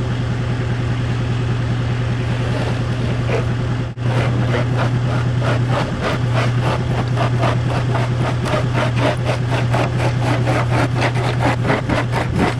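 A truck engine runs steadily with a low hum. About four seconds in, after a cut, a fast, even rattle of several ticks a second rides over it.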